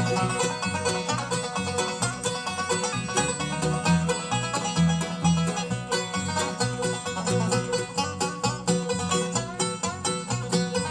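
Live bluegrass band playing an instrumental break: rapid banjo picking out front over guitar and a steady bass line.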